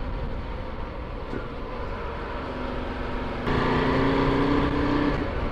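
Ducati Multistrada 1260S V-twin motorcycle running on the road, with a steady rush of wind and road noise. About three and a half seconds in, the engine note gets louder and holds steady.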